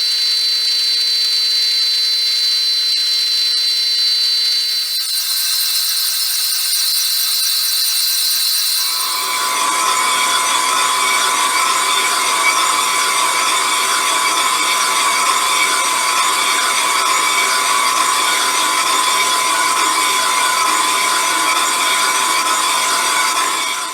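Metal lathe running with a cutting tool machining a cast flywheel mounted on the faceplate. It gives a steady, high whine. About nine seconds in, a fuller, rougher cutting sound takes over, with a steady ringing tone, and it cuts off suddenly near the end.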